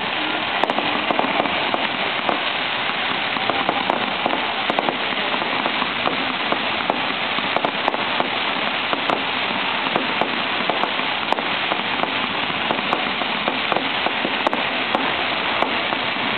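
Ground firework fountains hissing steadily while spraying sparks, with dense rapid crackling pops throughout.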